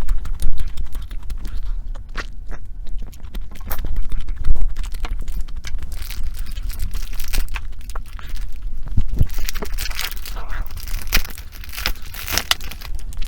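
Close-miked eating sounds: food being chewed and crunched, with many short sharp clicks and crackles.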